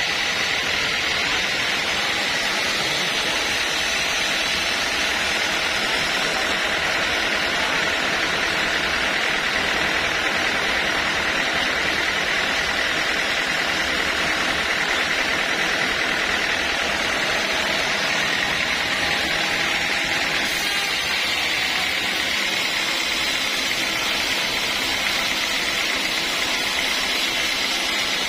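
Sawmill machinery running steadily: a constant high whine over a dense hiss, with no pauses or changes.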